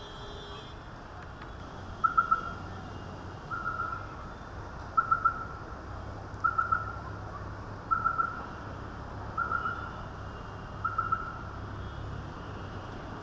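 A bird calling: a short three-note call at one steady pitch, repeated seven times about every second and a half, over a low steady rumble.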